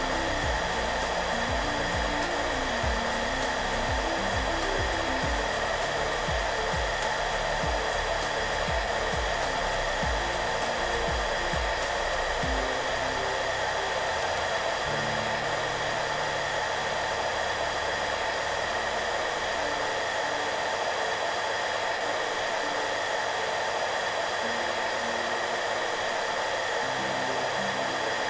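Hairdryer running steadily: an even blowing noise with a steady whine from its motor and fan. Soft music plays low underneath, with a low pulsing beat in the first half that stops about halfway through.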